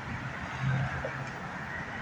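Vehicle engine running amid street traffic, its low hum swelling briefly about half a second in.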